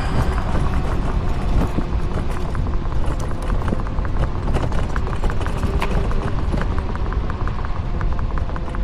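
Wind rumbling on the microphone of a moving rider, with rapid light clicks and rattles, several a second, from the ride over the path surface.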